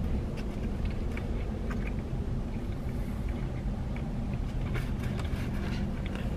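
Close-miked chewing of a mouthful of pizza, heard as many small mouth clicks, over a steady low hum from the car.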